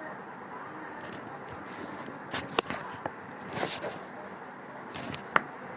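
Steady low background noise with a few short, sharp clicks and knocks, a pair about two and a half seconds in and a single louder one near the end.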